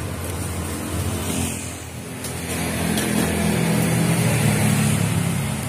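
A motor vehicle's engine running on the road close by. It fades briefly about two seconds in, then swells louder as it passes.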